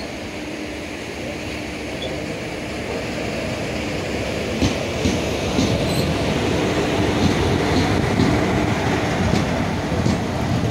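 Express train passing on the adjacent track, locomotive first and then its coaches. The rumble builds from about four seconds in, with wheels clicking over rail joints.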